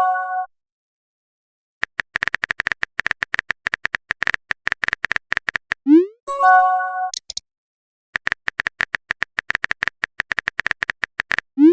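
Chat-app sound effects: quick runs of keyboard typing clicks, each ended by a short rising swoop and a brief chime as a message is sent. It happens twice: the first chime sounds about six seconds in, and a second swoop comes at the very end.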